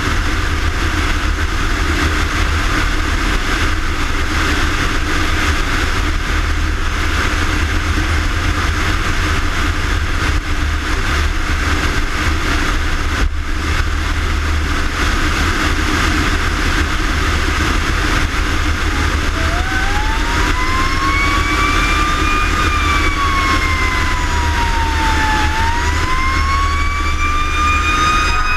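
Fire rescue engine running steadily at speed with heavy low engine and road hum. About two-thirds of the way in its siren starts winding up, rising, falling and rising again in a slow wail.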